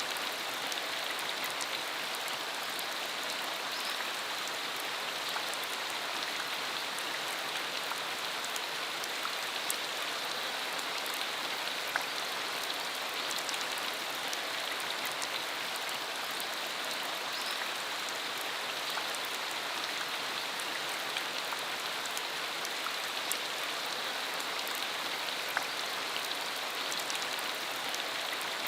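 Steady rain falling, with the patter of individual drops ticking throughout.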